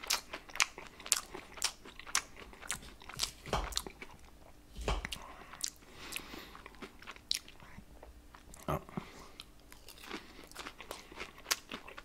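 Close chewing and crunching of crisp pan-fried potato noodles, with irregular sharp crunches about once or twice a second.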